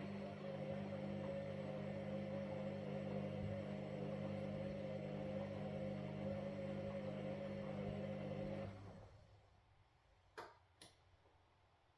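Washing machine motor running with a steady hum. It winds down and stops about nine seconds in, and two short clicks follow in the pause.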